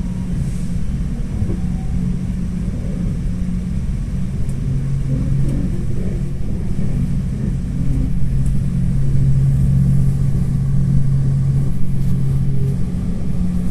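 Diesel locomotive of a departing GO Transit commuter train, its engine running with a steady low drone that grows louder about two-thirds of the way through.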